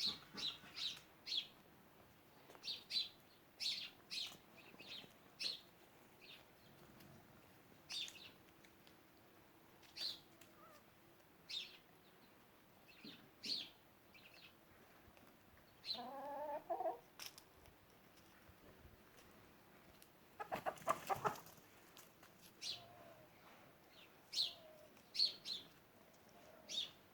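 Chickens calling: many short, high chirps at irregular intervals, a lower hen's call about sixteen seconds in, and a louder, harsher call about five seconds later.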